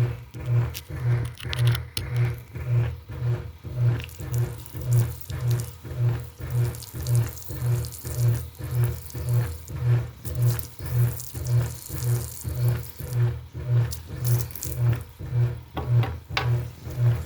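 Washing machine running a wash cycle: a low motor hum pulsing evenly about twice a second, with water sloshing in the drum.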